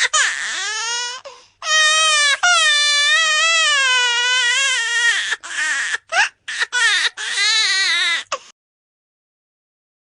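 Baby crying: short cries, then a long wavering wail, then more short cries, stopping about eight and a half seconds in.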